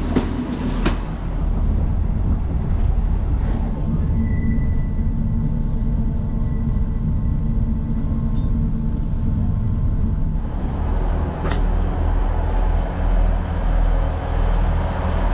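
Passenger train running on the line, heard from on board: a steady low rumble with a faint steady whine in the middle of the stretch.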